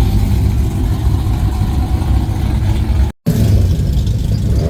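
Car engine running with a low rumble, cut off briefly about three seconds in and then carrying on.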